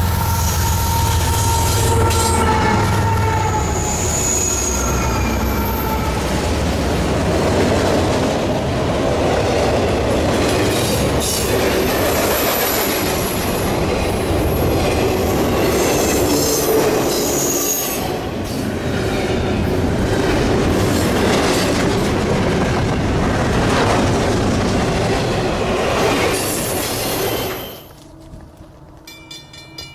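A freight train rolling past close by: steel wheels on rail with wheel squeal and clickety-clack over rail joints, loud and steady. It cuts off suddenly near the end to a much quieter sound with a regular ringing pulse.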